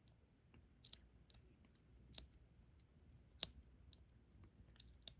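Faint, irregular clicks and taps of a diamond-painting drill pen picking up resin drills and pressing them onto the adhesive canvas, about half a dozen in all, the clearest a little past the middle.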